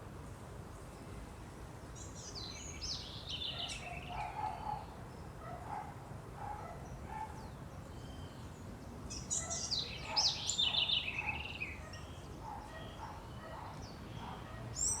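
Wild birds singing: two bright, falling, trilled songs, one starting about two seconds in and a louder one near the middle, over softer short calls lower in pitch and a steady low background noise.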